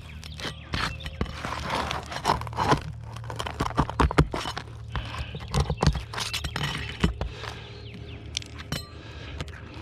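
Brittle asphalt roof shingles being pried open and scraped to get at the nails beneath: irregular scraping, crackling and sharp clicks.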